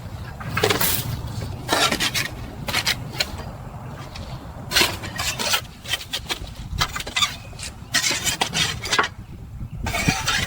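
Irregular metal clanks and scrapes, a series of separate knocks at uneven intervals with no steady machine tone.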